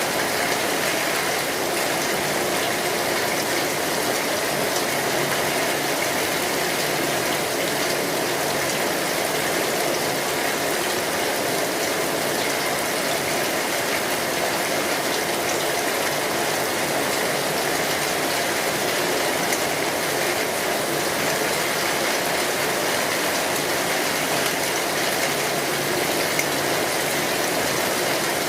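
Steady rain on a metal roof: a dense, even patter of drops that holds at the same level throughout.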